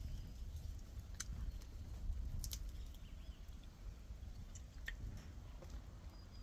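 Close-up chewing and gnawing on coyol palm fruit, with three sharp little clicks over a low rumble.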